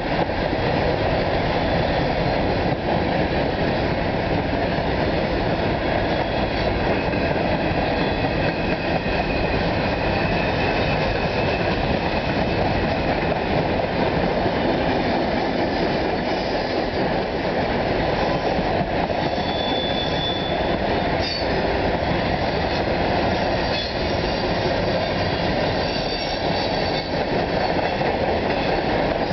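CSX freight train of covered grain hopper cars rolling past: a steady rumble of steel wheels on the rails, with short high wheel squeals now and then.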